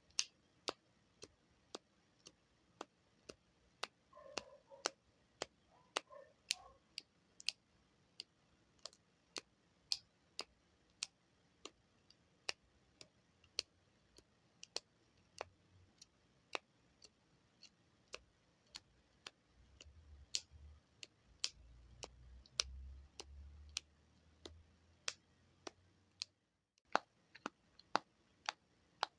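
Buttons being pressed in crisp, close-up clicks, about two a second in an uneven rhythm, with a soft low rumble under them about two-thirds of the way in.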